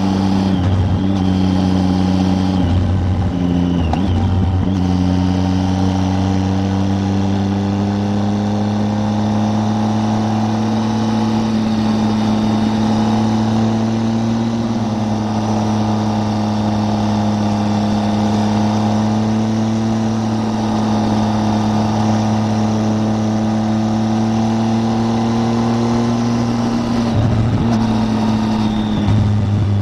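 Triumph Tiger 800's three-cylinder engine pulling steadily on the road, its pitch slowly rising. The note breaks and shifts briefly a few seconds in and again near the end, as with gear changes.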